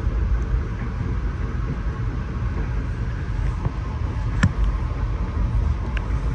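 Passenger rail coach running at speed, heard from inside the car: a steady low rumble of wheels on track, with a sharp click about four seconds in and a fainter one near the end.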